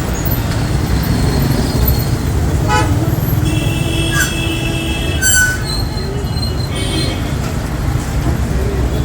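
Heavy road traffic, with a steady rumble of engines and tyres and several vehicle horns honking over it: a quick run of beeps, one horn held for over a second near the middle, and more short honks after it.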